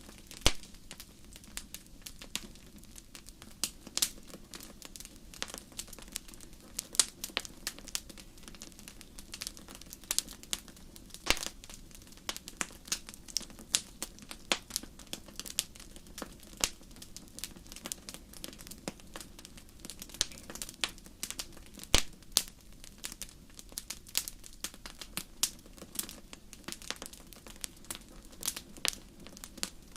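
Fireplace fire crackling: irregular sharp pops and snaps, several a second, a few much louder than the rest, over a steady low background rush.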